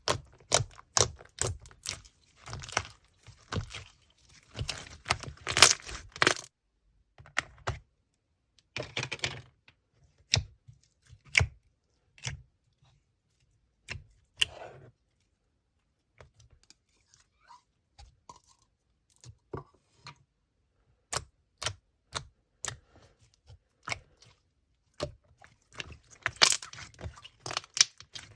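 Hands squishing and poking slime: crackling spells in the first six seconds and again near the end, with single sticky clicks and pops in between.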